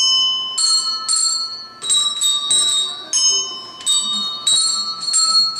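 Children playing a simple melody on a set of tuned bells, one ringing note after another at roughly two strikes a second, each note a different pitch and left to ring.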